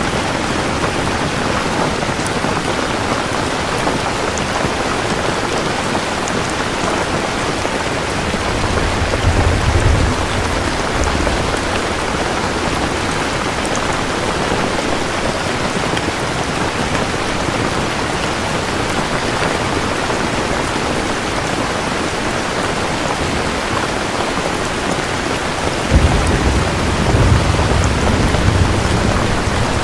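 Steady heavy rain falling on a surface, with low thunder rumbling twice: briefly about a third of the way in and again near the end.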